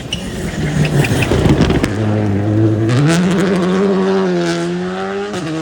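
A WRC rally car at full attack on the stage. A noisy rush with sharp clicks comes first, then the engine note climbs steeply about three seconds in and holds high as the car accelerates. It cuts off suddenly at the end.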